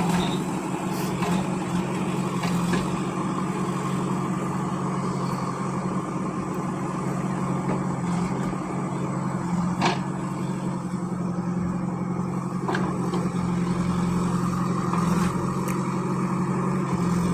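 Engine of a heavy vehicle running steadily with a constant low hum, with a few sharp clicks over it, the loudest about ten seconds in.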